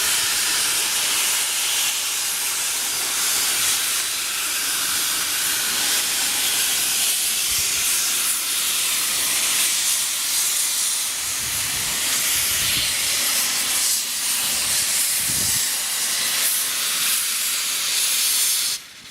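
Steam locomotive letting off steam: a loud, steady hiss that stops abruptly near the end.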